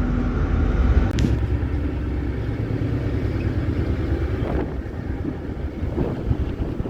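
A steady, low engine rumble with a haze of wind or water noise over it, and a single short click about a second in.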